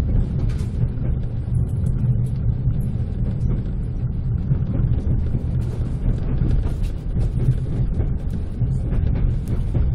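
Running noise heard inside a moving passenger railway carriage: a steady low rumble of the wheels on the track, with faint knocks and clicks now and then.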